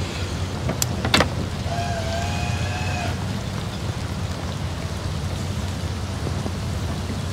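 Heavy, drenching rain falling, over a steady low hum. A couple of sharp knocks come about a second in, and a brief wavering tone sounds between two and three seconds in.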